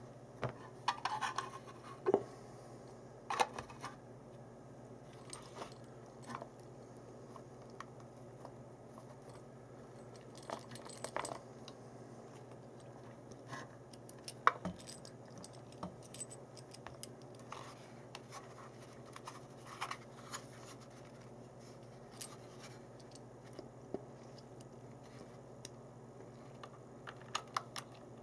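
Scattered light clicks and taps of small hard objects being handled, over a faint steady low hum.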